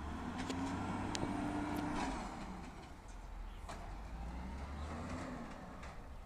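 Peterbilt 320 automated side-loader garbage truck running, its engine pitch rising and falling back twice, with scattered clicks and knocks.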